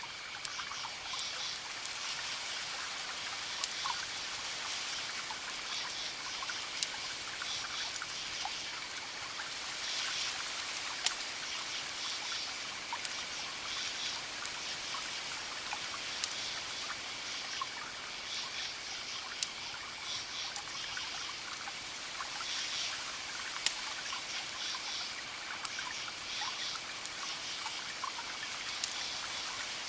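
Campfire crackling with scattered sharp pops, over a steady wash of distant ocean waves, while crickets chirp in repeated pulsed bursts and a steady high insect trill carries on.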